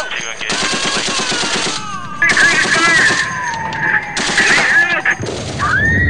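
Battle sounds: rapid machine-gun fire throughout, with a long falling whistle through the middle and a deep explosion starting about five seconds in.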